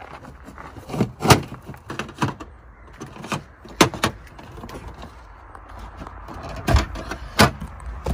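An irregular run of about seven sharp knocks and clanks from parts being pulled and handled on a semi truck, over a low steady rumble.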